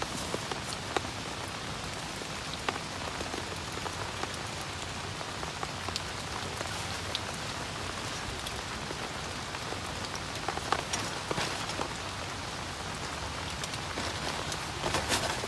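Steady rain falling, with many individual drops ticking sharply close by and a denser patter of drops near the end.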